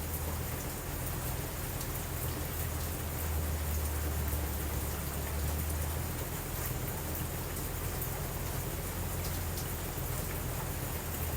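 Steady rain falling, an even hiss with a constant low rumble under it and scattered faint small ticks.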